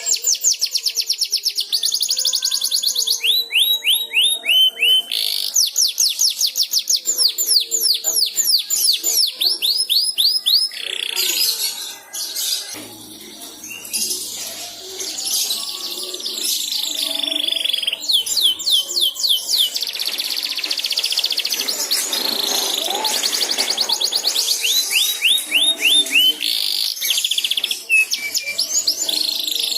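Domestic canary singing a rolling, trilled song: fast trills of repeated downward-sweeping notes in phrases a few seconds long, with a buzzier, rattling stretch in the middle.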